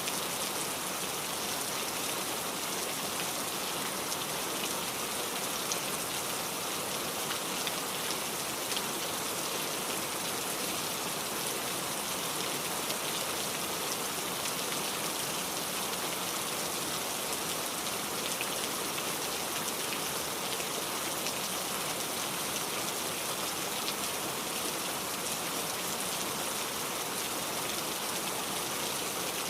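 Steady rain falling on a surface: an even, continuous patter with no thunder or other events.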